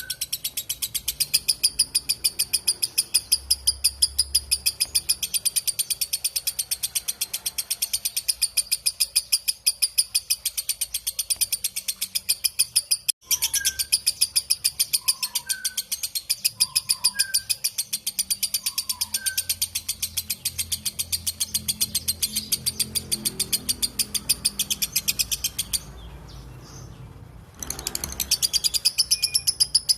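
Lovebird's long 'ngekek' chatter: a rapid, unbroken string of shrill, evenly repeated chirps. It breaks off for an instant about midway and pauses for about two seconds near the end before starting again. A few softer, lower chirps sound in the middle.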